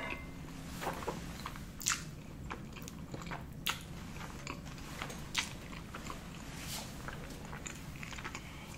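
Close-miked chewing of a mouthful of spaghetti carbonara, with wet mouth clicks and smacks every second or so.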